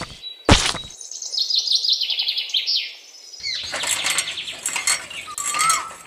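Small birds chirping in quick high trills, with a sharp knock about half a second in.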